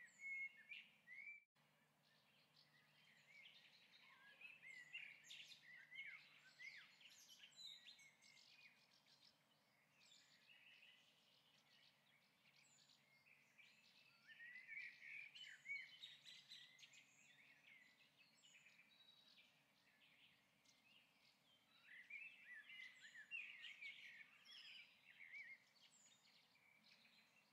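Faint birdsong: many short, high chirps and twitters from small birds, coming in waves. The sound cuts out for an instant about a second and a half in.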